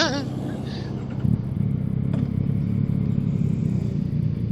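Motorcycle engine running steadily on the move, pulling a little harder about a second and a half in.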